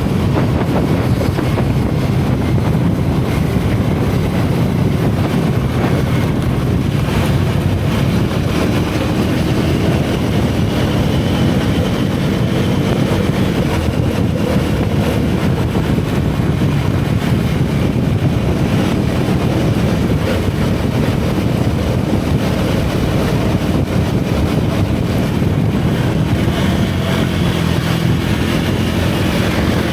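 Single-cylinder motorcycle engine and exhaust running steadily while riding, with wind rushing over the action-camera microphone. The engine note drifts gently up and down with the throttle.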